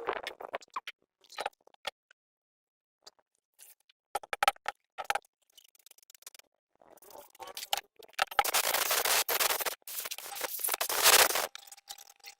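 Hand work on generator engine parts: scattered light clicks and taps, then about three seconds of continuous scraping noise that stops abruptly near the end.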